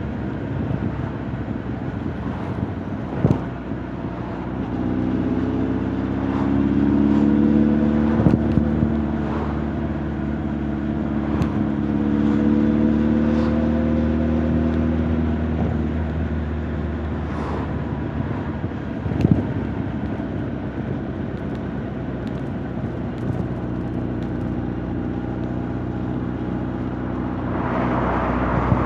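Honda CB1300 Super Bol d'Or's inline-four engine and exhaust running on the road. The pitch climbs about five seconds in, holds, then eases back. A few sharp clicks sound over it.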